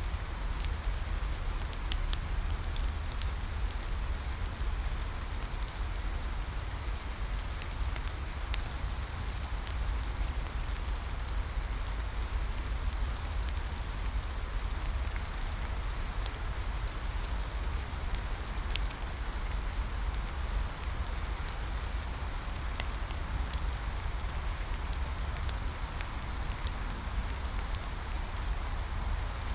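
Steady rain falling together with a crackling wood bonfire, scattered sharp pops and ticks over an even hiss, with a deep rumble underneath.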